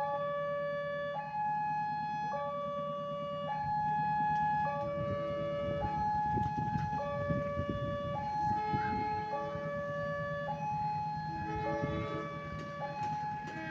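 Two-tone electronic warning alarm of a railway level crossing, switching between a lower and a higher steady tone about once a second. Under it runs a low steady hum, with a rougher rumble swelling in the middle.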